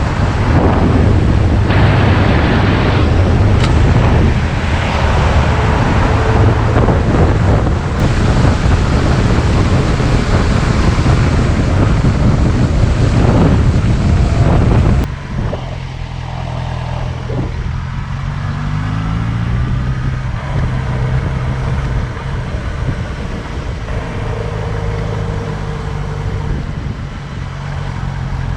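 Motorcycle engine running under heavy wind buffeting on the microphone while riding. About halfway the wind noise drops away suddenly, leaving the engine running more clearly, with a brief rise in revs.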